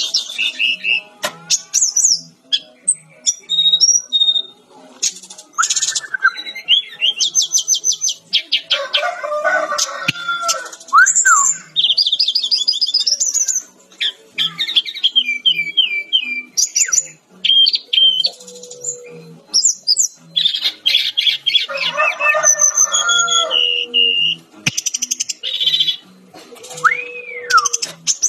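Sikatan-rimba dada-coklat (a jungle flycatcher, Cyornis olivaceus) singing a long, varied song: rapid trills, chirps and clear whistled notes in quick phrases with short pauses between them.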